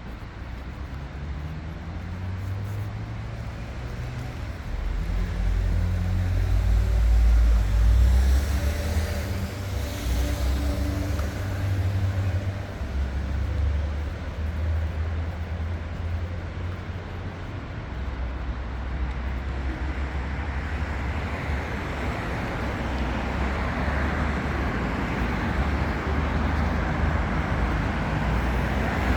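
City street traffic: a motor vehicle's engine rumble builds, rising in pitch, and is loudest about seven or eight seconds in as it passes, with a brief hiss a couple of seconds later. Steady traffic rumble follows, with tyre noise growing louder in the last third.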